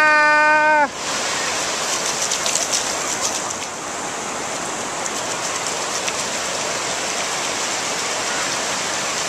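Ocean surf washing up a beach: a steady hiss of breaking water, with a wave crashing and fizzing into foam for a couple of seconds after the start. It opens with a child's short high-pitched shriek.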